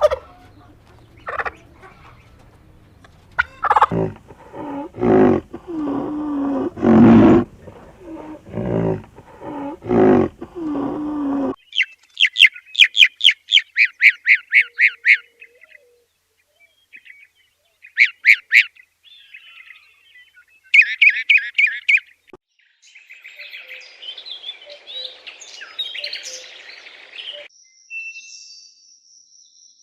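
Domestic turkeys calling: lower pitched calls at first, then fast rattling gobbles in several separate bursts.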